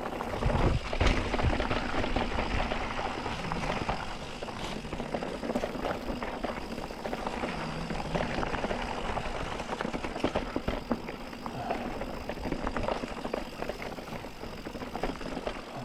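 Mountain bike riding over rough singletrack: tyre noise and the bike rattling, with many small knocks and a low rumble throughout.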